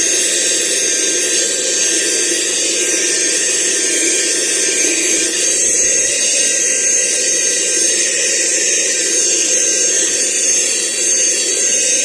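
Aspiring Windstorm 3 handheld car vacuum cleaner running steadily, its motor giving a high whine over the rush of air.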